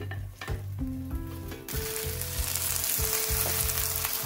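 Chive pancake frying in oil in a nonstick pan, sizzling. The sizzle starts suddenly about two seconds in, when the flipped pancake goes back onto the hot oiled pan, and then holds steady.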